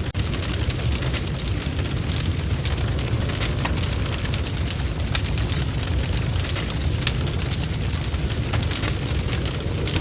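Wood fire (bonfire) burning, with a steady low rumble of flames and many sharp crackles and pops from the burning wood.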